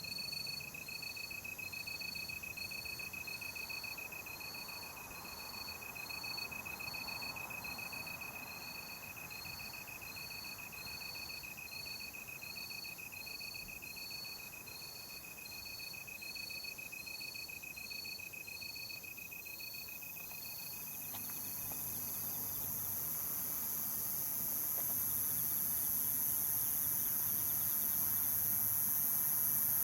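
Night insects chirping: a steady high trill with a pulsed chirp repeating a little more than once a second, both stopping about two-thirds of the way through, while a very high-pitched insect hiss swells louder toward the end.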